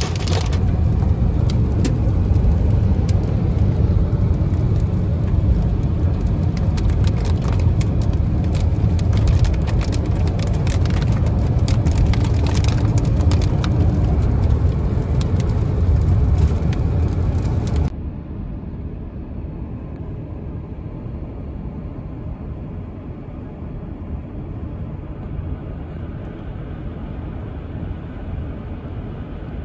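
Hail and heavy rain pelting a car's body and windshield: a dense patter of sharp hits over a heavy low rumble. About 18 seconds in it cuts off abruptly to a quieter, steady car-cabin rumble without the hits.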